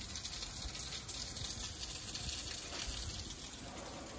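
Rain falling on wet concrete and gravel: a steady hiss with many small drop ticks.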